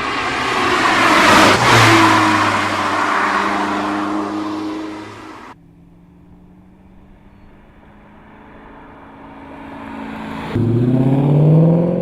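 A sports car's engine sweeps past at speed, loudest about a second and a half in, then drops in pitch and cuts off abruptly. After a quieter stretch, a car engine suddenly comes in loud near the end, revving up with a rising pitch as it accelerates.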